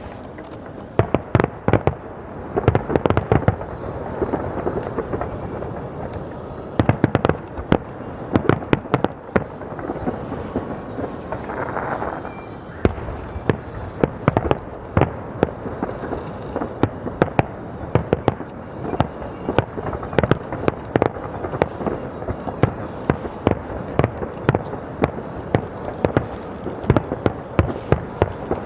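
Fireworks bursting in a rapid, continuous barrage: many sharp bangs and crackles every second over a rumbling background.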